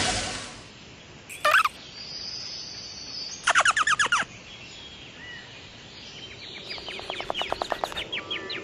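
Bird-like chirps and trills. A short call comes about a second and a half in, then a quick run of about eight chirps near four seconds, then a faint, fast trill through the last two seconds.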